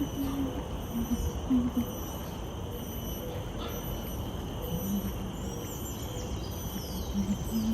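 Bird park ambience: a bird coos in short low notes, in groups of two or three, over a steady high insect drone and a few quick bird chirps.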